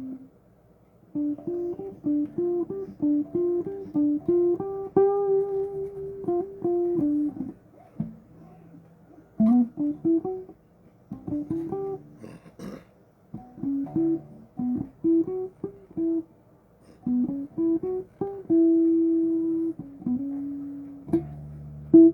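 Bass guitar played solo: short melodic phrases of plucked notes separated by brief pauses, with one note held longer about four-fifths of the way through.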